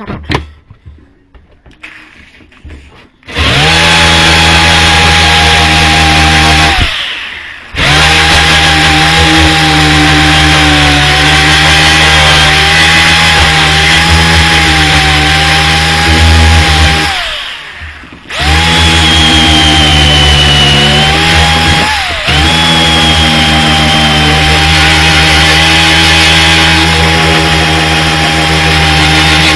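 Electric grinder running under load, stripping the old paint off a metal sign: it spins up about 3 seconds in, winds down briefly twice and starts again, giving a loud, steady high whine.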